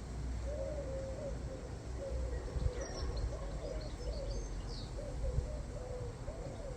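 A bird repeating low, wavering calls in short phrases, with a few faint high chirps from small birds and a low rumble underneath.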